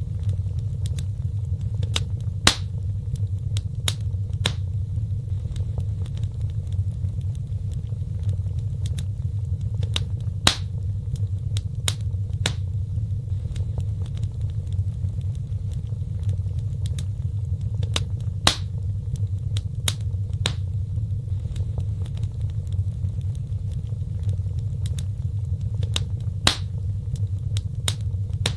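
Wood fire burning in a fireplace: a steady low rumble of flame with irregular crackles and a few louder sharp pops.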